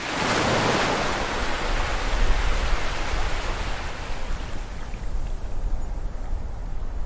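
Ocean wave breaking on a beach: a sudden surge of surf noise right at the start that washes in and fades over about five seconds, with a low rumble underneath.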